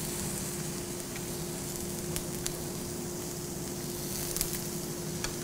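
Egg white omelette with peppers sizzling steadily on a hot electric griddle, with a few faint ticks and a steady low hum underneath.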